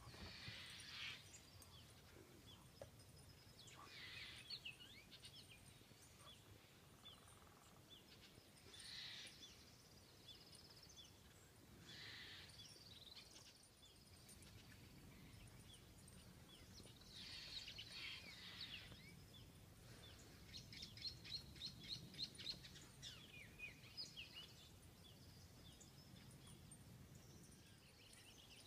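Faint songbirds chirping in short bursts of quick notes every few seconds, over a quiet steady background hush.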